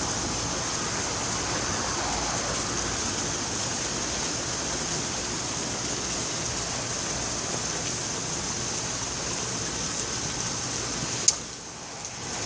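Steady rain falling on a garden, an even hiss. A single sharp click comes near the end, after which the rain sounds quieter.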